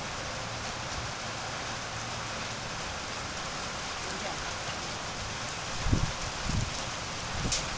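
Steady hiss of rain, with a few short low thumps about six seconds in and again near the end.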